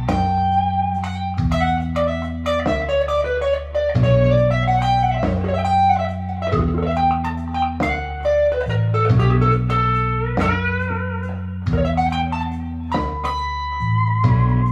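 Firefly FFST electric guitar played with a clean tone: a single-note lead melody with string bends over low sustained chords that change every second or so.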